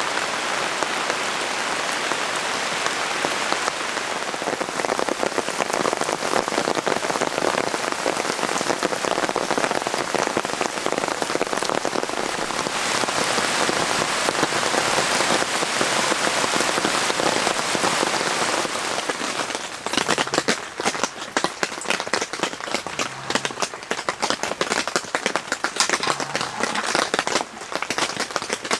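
Steady rain falling. About two-thirds of the way through it thins out into separate drops pattering.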